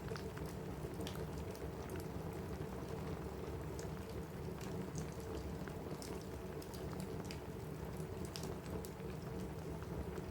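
Steady rain on a cabin roof mixed with a crackling wood fire: an even hiss with scattered sharp pops and ticks throughout.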